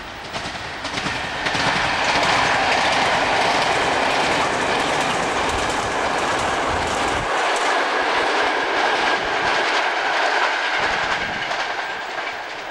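Passenger train running past. The sound builds over the first two seconds, holds steady, then eases near the end, with a thin high whine running through it.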